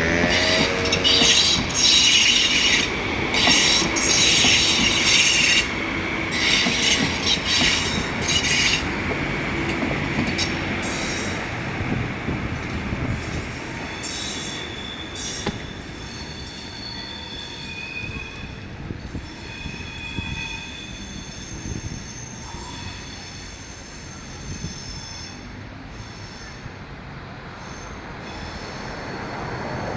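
Frecciarossa 1000 (ETR 1000) high-speed electric train running past with its wheels squealing on the rails. The squeal is loudest for about the first nine seconds. It then thins to shorter, higher squeals as the train moves away and the sound fades.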